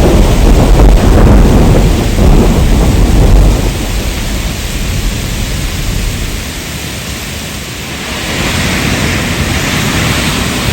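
Thunderstorm with heavy rain: a loud low roll of thunder rumbles for the first few seconds and dies away. A steady hiss of rain grows louder near the end.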